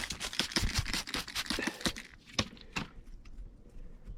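Stone pieces being handled, with quick scraping and clicking of rock and grit, dense for about two seconds, then a few separate sharp clicks.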